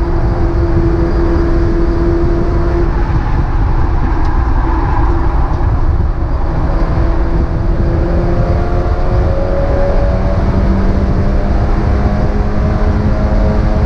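Mazda MX-5 race car's four-cylinder engine heard onboard, running hard under a dense low rumble of road and wind noise. Its pitch holds steady early on, then climbs steadily through the second half as the car accelerates.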